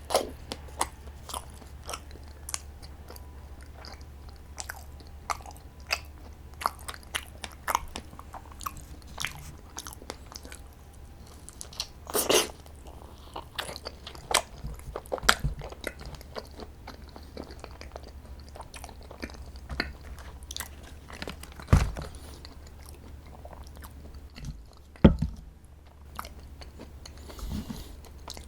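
Close-miked eating sounds: chewing and biting into strawberry desserts, with many small wet clicks and a few louder crunchy bites, over a low steady hum.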